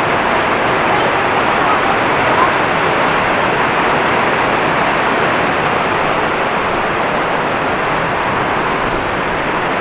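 Heavy rain falling, with runoff water pouring into a pool: a steady, loud rush of water.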